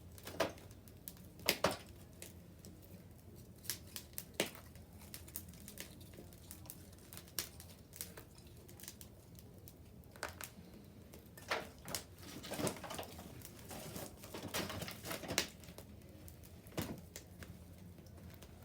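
Wood bonfire crackling and popping: irregular sharp snaps, with a few louder ones about a second and a half in and a busier run of crackles from about eleven to sixteen seconds in.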